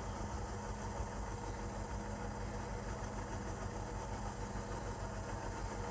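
Tsunami 2 sound decoder's recorded GE 7FDL-16 diesel engine running steadily, played through a model locomotive's small speaker.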